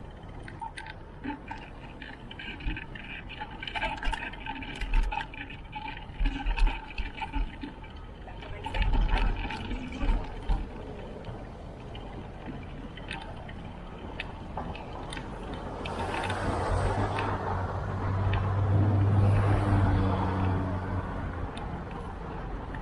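Riding noise of a bicycle on a city street: rattles, clicks and bumps through the first half. Then a motor vehicle passes, its engine hum swelling and fading over about five seconds.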